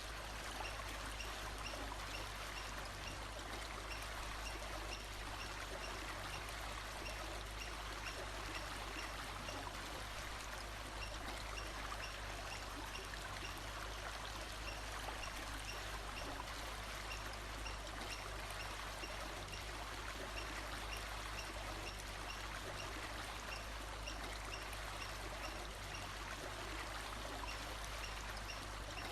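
Steady rush of flowing stream water, with faint high chirps repeating at an even pace through the first half.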